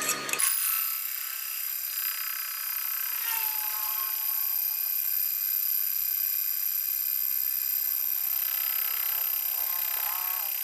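A steady high-pitched machine whine made of several held tones, with a faint sliding tone about three seconds in and again near the end.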